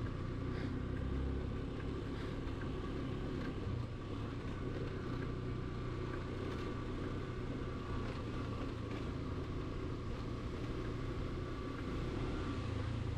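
Motorcycle engine running steadily while riding along a road, a continuous low rumble.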